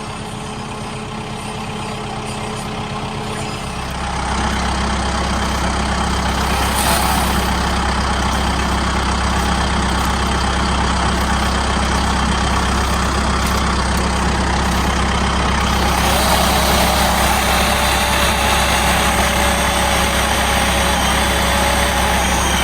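Kubota M7060D tractor's diesel engine running steadily. About four seconds in it steps up in level and deepens, as if taking load or revving up.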